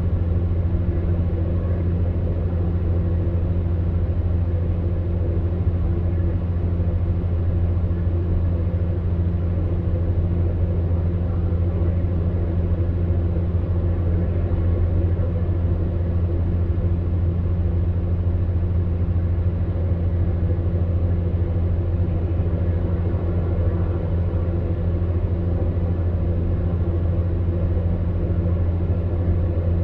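Electric fan heater running steadily: a constant low hum with an even rush of blown air over it.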